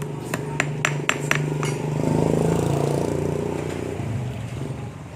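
About six sharp metallic clicks in quick succession from a hand tool tightening the pump's bolts, over a steady low engine hum that swells and fades in the middle.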